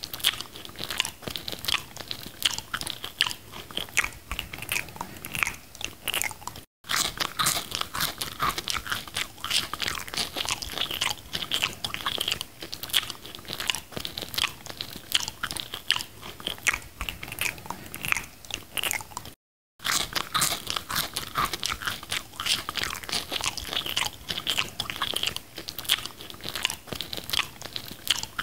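Close-miked eating of McDonald's food dipped in sauce: a dense, continuous run of crisp crunching and chewing mouth sounds. The run cuts to dead silence twice, briefly.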